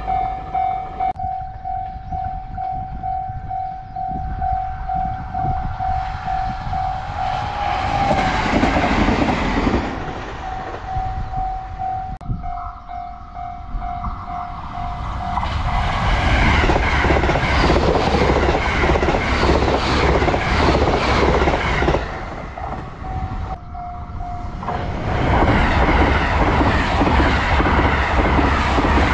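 A level-crossing warning bell rings in a steady repeating beat. Then an electric limited express train rushes past close by, its wheels rumbling and clattering on the rails, and it is loudest in the second half. The sound is cut into several edited segments.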